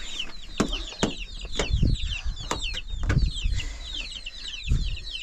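A flock of chickens, chicks among them, cheeping continuously in many short, high, falling peeps, with sharp knocks and a few dull low thumps about two, three and four and a half seconds in.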